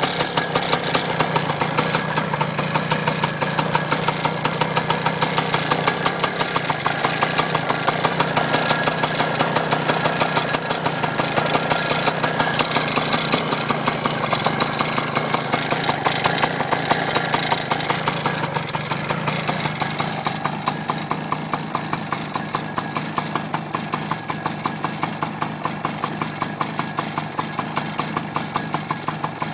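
1995 Yamaha PW80's single-cylinder two-stroke engine idling steadily with a rattling noise. The rattle is still there after a new piston and rings, and the owner is unsure whether it is normal for a PW80. It runs a little quieter about two-thirds of the way through.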